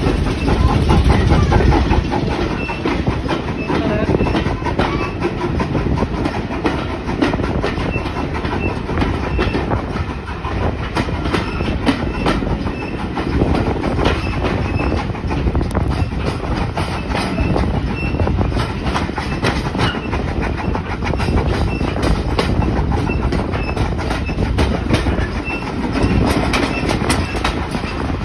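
Steam-hauled heritage train moving past a station platform, its wheels clicking steadily over the rail joints.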